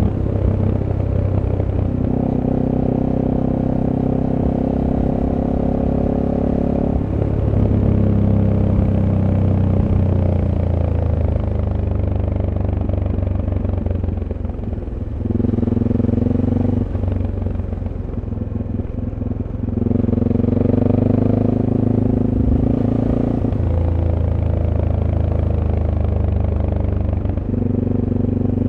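SWM SuperDual T's single-cylinder engine on its stock exhaust, running under way. The engine note climbs and drops as the throttle is opened and closed and gears are changed through bends, with a softer, lower stretch around the middle.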